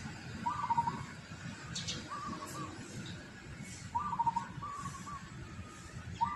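A bird calling: short warbling calls, repeated every second or two.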